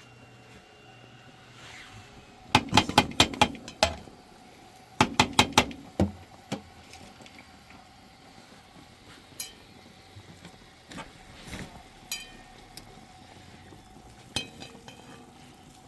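Two quick runs of sharp knocks or clinks of hard objects, about five strikes each, a couple of seconds apart, followed by a few scattered lighter clicks.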